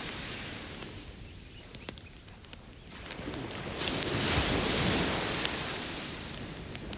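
A wave washing up the beach, swelling to a peak about four to five seconds in and then drawing back, over scattered sharp crackles and pops from a burning campfire.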